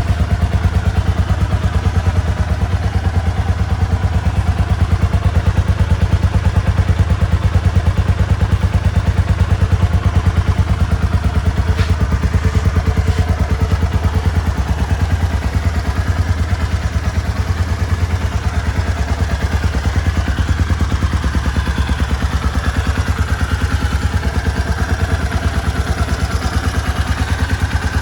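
Kawasaki Estrella RS's air-cooled single-cylinder four-stroke engine idling steadily, with an even, regular low pulse.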